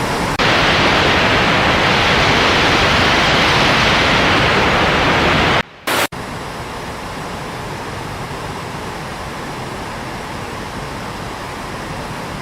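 Loud steady rushing of water. It is cut off abruptly a little before halfway, then resumes noticeably quieter, with a sudden step up in level just after the start.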